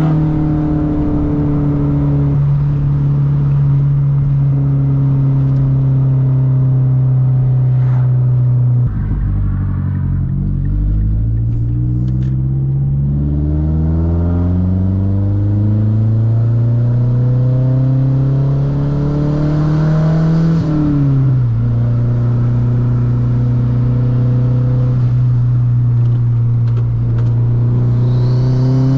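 Mazdaspeed3's turbocharged 2.3-litre four-cylinder with a straight-piped exhaust, driving. It holds steady revs for about nine seconds and breaks off briefly. It then revs up steadily under acceleration for about ten seconds, drops sharply at a gear change, settles, and starts climbing again at the end.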